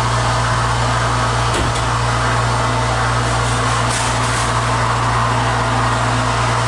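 Elevator drive machinery running in its machine room: a loud, steady electric hum with a deep mains-type drone under a rushing noise, the sound of the car in motion.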